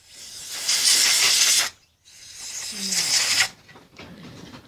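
Compressed air from an air-compressor blow gun hissing in two bursts of about a second and a half each, blowing out the carburetor float bowl of a 49cc two-stroke engine.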